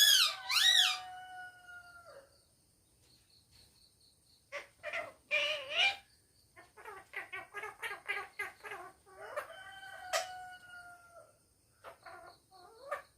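Pet parrot calling: a few loud calls that rise and fall in pitch at the start, then after a pause of a couple of seconds a string of squawks and a rapid run of short chattering notes.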